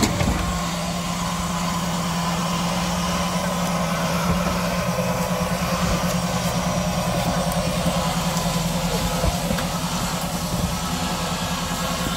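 Off-road 4x4's engine running at low revs as the vehicle creeps down a steep descent. It makes a steady low hum, which starts pulsing evenly about five seconds in.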